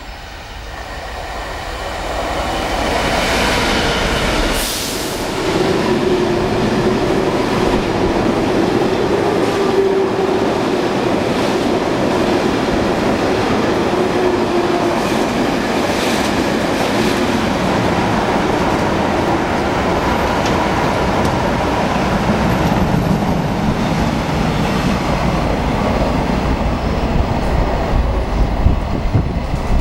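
Heavy coal freight train hauled by two EMD two-stroke diesel locomotives, a Class 66 and a Class 59, passing close by. It grows louder over the first few seconds as the locomotives come through, then holds steady as the loaded coal wagons roll past with a continuous rumble and wheel clatter.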